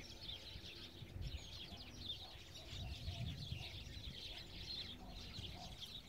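Many small birds chirping and twittering faintly, their short calls overlapping throughout, over a low uneven rumble.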